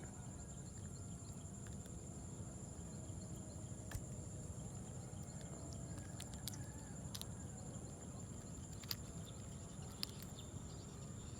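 Insects chirring steadily at a high, even pitch over a low rumble, with a few faint clicks scattered through.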